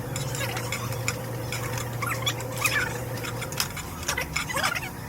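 Cutlery and dishes clicking and clinking at a meal table, scattered short taps, over a steady low hum.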